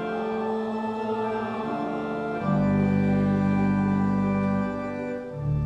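Church organ playing sustained chords as the introduction to a hymn, with deep bass notes coming in about halfway through and pausing briefly near the end.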